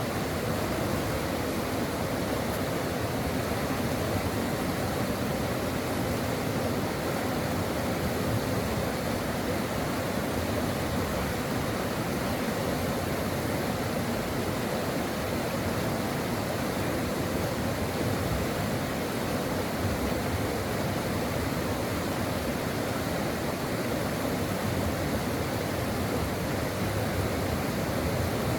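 Brook of water flowing steadily over rocks, an even, unbroken rushing.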